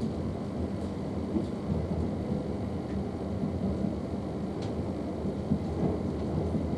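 Steady low rumble of a South Western Railway Class 444 electric multiple unit running along the track, heard from inside the carriage, with a few faint clicks.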